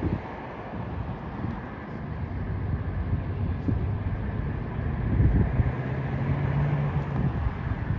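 A motor vehicle engine running over steady street noise; its low hum rises in pitch a little past halfway through, then fades near the end.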